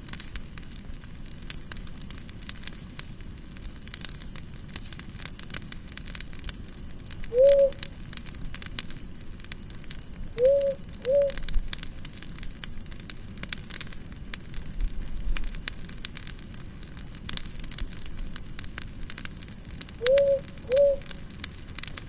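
Campfire crackling with frequent sharp pops, while a cricket chirps in short high trills of four or five pulses. A short low call that rises then falls comes in now and then, singly or in pairs.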